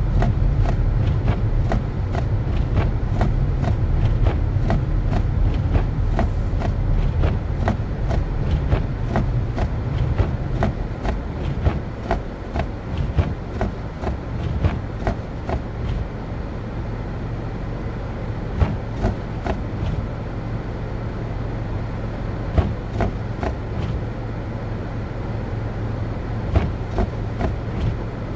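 Car driving on a snow-covered street: a steady low road and engine rumble that eases about halfway through, with many irregular clicks and knocks.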